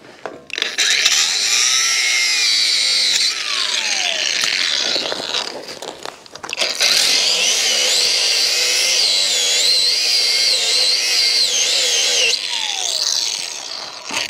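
Cordless angle grinder cutting metal with an abrasive disc in two long passes. The pitch wavers as the disc bites, and each pass ends with the motor spinning down in a falling whine.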